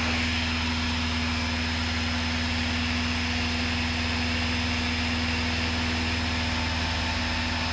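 Light single-engine aircraft's piston engine and propeller droning steadily in flight, heard inside the cabin.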